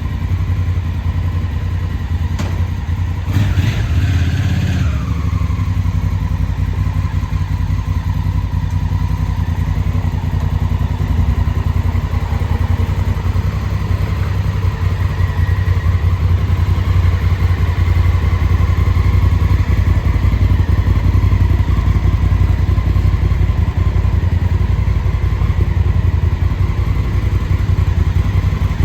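Honda Africa Twin's 998 cc parallel-twin engine idling steadily, with a short blip of the throttle about three to four seconds in that falls back to idle.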